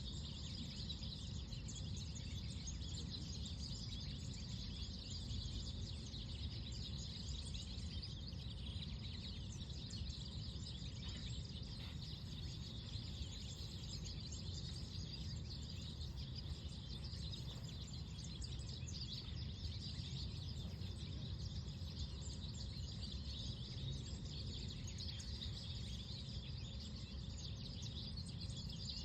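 Park ambience of many small birds chirping continuously, over a low steady rumble of wind and distant background noise.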